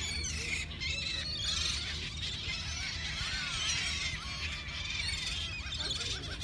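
A flock of seagulls calling together: many overlapping high, short cries, loudest through the middle, over a steady low rumble.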